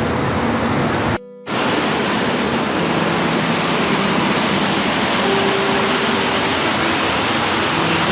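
Steady heavy rain, an even hiss that cuts out for a split second about a second in, with a faint steady hum underneath.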